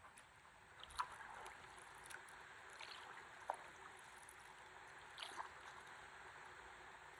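Faint water lapping and trickling around a drifting stand-up paddleboard, with a few small drips or splashes.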